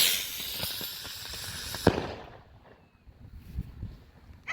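A Blastwave Peacemaker spinner firework hissing as it burns, then one sharp pop about two seconds in, after which the hiss dies away.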